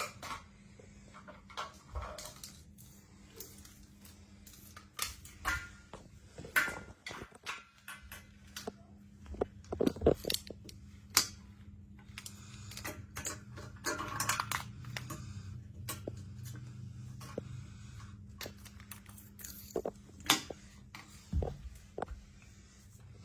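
A pen clicking and tapping on a hard surface as a kitten bats and bites at it: irregular light clicks, taps and scrapes, some in quick clusters, over a faint steady hum.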